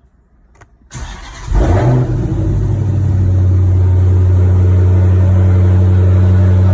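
Car engine cold start: the starter cranks briefly, the engine catches with a rev flare, then settles into a steady, loud idle.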